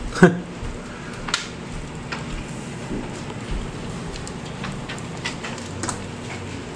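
Steady rain falling during a thunderstorm, with scattered sharp taps of drops striking nearby surfaces.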